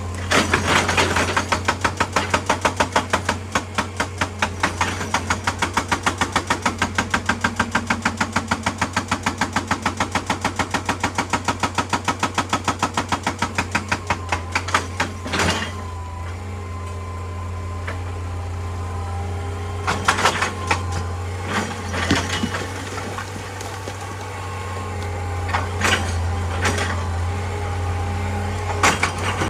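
Excavator-mounted hydraulic rock breaker hammering rock in a fast, even run of knocks, about five a second, over the machine's engine drone, stopping about halfway through. After that the engine keeps running, with a few separate knocks of rock.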